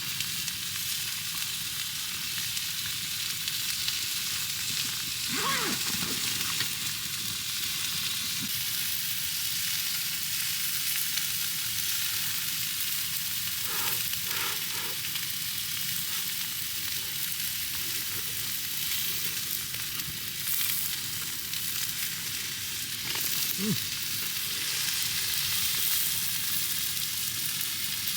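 Meat rolls sizzling steadily in a hot frying pan, with fat spitting in a continuous high hiss.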